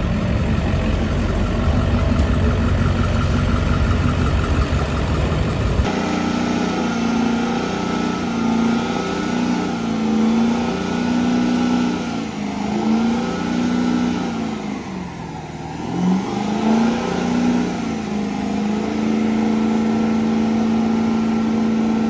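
Truck engine running with a deep rumble, then, after an abrupt change about six seconds in, engines revving, the pitch stepping up and down and holding between revs.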